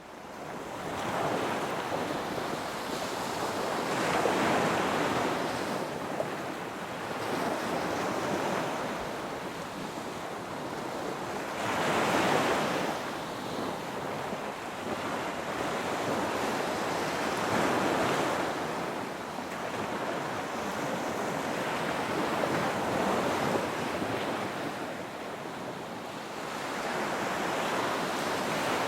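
Ocean waves breaking and washing on a shore, the surf swelling and falling back every four to six seconds.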